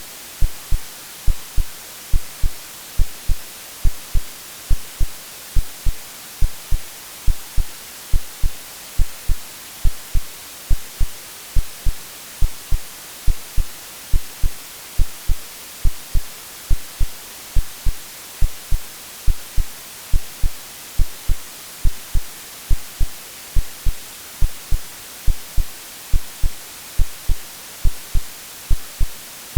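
AI-generated heartbeat sound, a steady lub-dub double thump about once a second, over a constant hiss of white noise.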